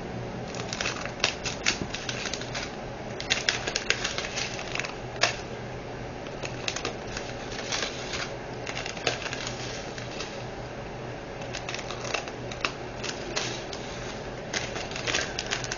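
Diamond painting drills and their small plastic storage containers being handled: irregular light plastic clicks and rattles, some in quick runs.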